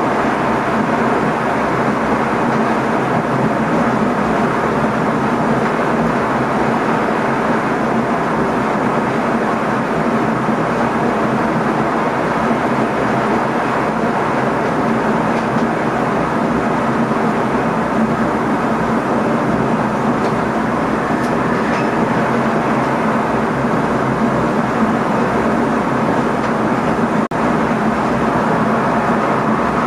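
Steady running noise heard inside the driver's cab of an NS ICM (Koploper) electric intercity train travelling along the line: an even rush of wheel-on-rail rumble and air noise that holds constant, with a momentary dip about 27 seconds in.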